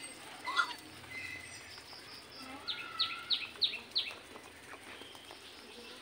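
A bird chirping: one short call about half a second in, then a quick run of five sharp, falling chirps about three seconds in.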